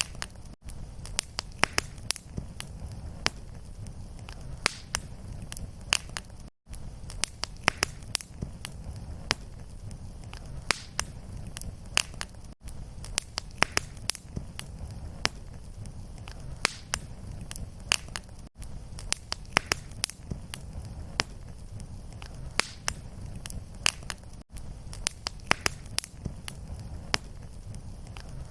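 Fireplace fire crackling: a steady low rumble with frequent sharp pops and crackles. It cuts out for an instant about every six seconds, where the short looped recording repeats.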